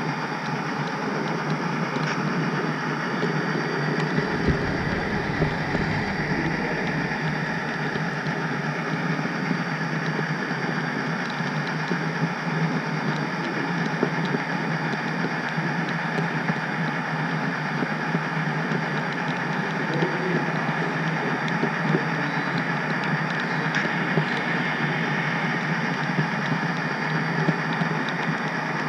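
HO scale model train running along the layout track: a steady mechanical rumble with scattered small clicks, and a brief deeper rumble about four seconds in.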